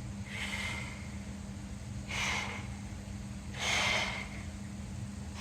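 A man breathing hard through a set of dumbbell curls: three forceful breaths about a second and a half apart, one for each rep, over a steady low hum.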